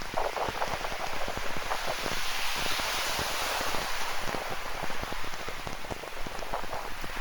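Rain falling, a dense patter of close drops, with the broad hiss of ocean surf swelling about halfway through.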